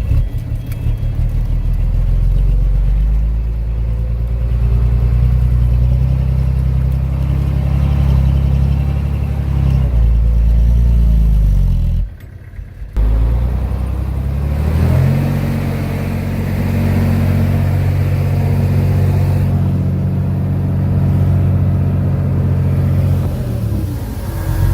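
Heavy construction-machine diesel engine running steadily under load. Its pitch falls just before a brief break about halfway, then climbs back up and holds steady.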